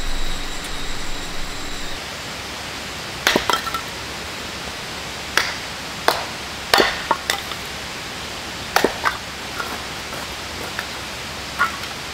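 Steady rushing of a nearby stream, with about nine short sharp clicks and knocks at irregular moments.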